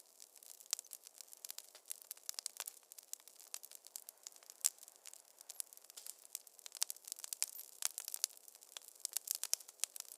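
Wood fire crackling in a fireplace: a dense, irregular run of sharp pops and snaps over a faint hiss, with no low rumble.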